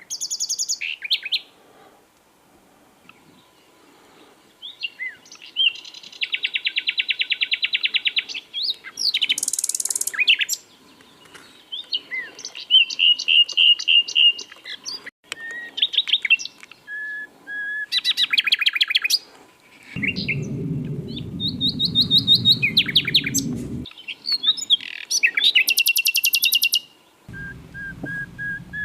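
Common nightingale singing: separate phrases broken by short pauses, made of fast repeated-note trills and rattles and soft drawn-out whistles. A low rumbling noise comes in twice under the song, near the end.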